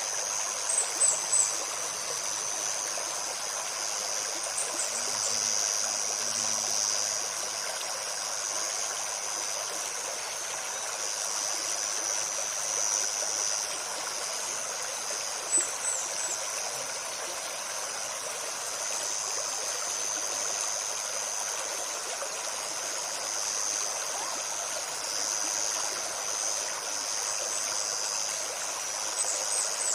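Forest stream babbling steadily over stones, with a high buzz that swells and fades. Short, sharp high bird chirps come about a second in, around five seconds, around sixteen seconds and near the end.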